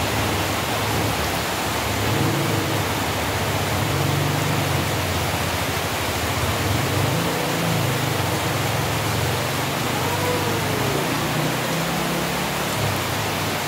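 Steady, loud hiss of heavy rain, with a fainter low pitched sound rising and falling underneath.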